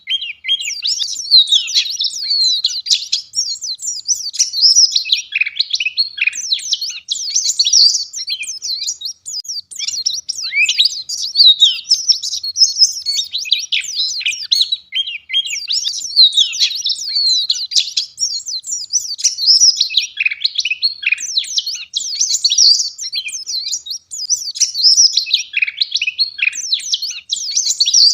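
White-eye (pleci) singing a fast, dense, high-pitched twittering song almost without pause, only a few very short breaks.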